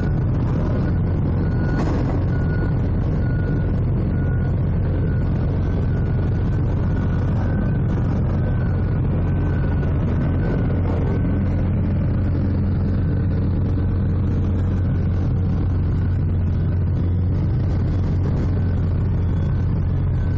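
Forklift and heavy-engine noise at a port: a steady low engine drone, with a faint high beeping that comes and goes through it, like a forklift's reversing alarm.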